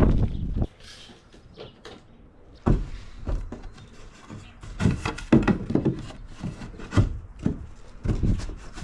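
Irregular wooden knocks and thuds, such as lumber being handled and set on a wooden deck. A low rumbling sound cuts off just after the start, and the knocks come after a short quiet gap, loudest around the middle.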